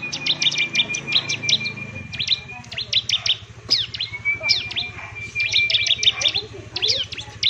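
A songbird singing in two long phrases, each a held whistled note with quick sharp chirps over it, over a low steady hum.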